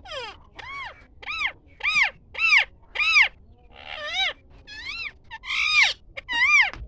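An animal calling over and over: about ten short cries that rise and fall in pitch, coming roughly every half second.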